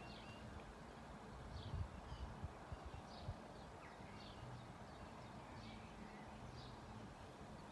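Faint birdsong: short high chirps about once a second over a low background hush, with a few dull low thumps about two to three seconds in.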